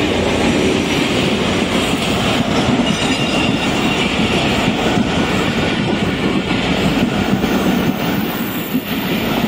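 Passenger train's coaches rolling past close by on the rails as the express pulls into the station: a steady, loud rumble of wheels on track.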